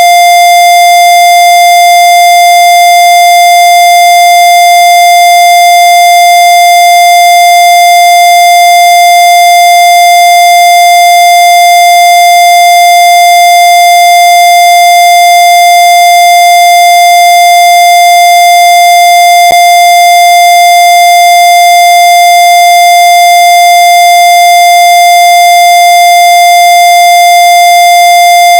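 Very loud, steady electronic tone, holding one pitch without change and harsh with many overtones. A faint click comes about two-thirds of the way through.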